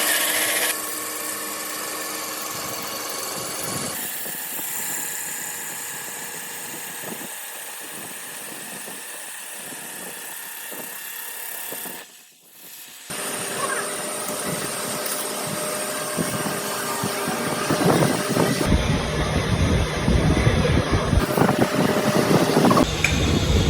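Factory machinery running in the workshop where cylinder sleeves are made, heard in several steady stretches that change abruptly. Near the end it grows louder, with a heavier rumble and clatter.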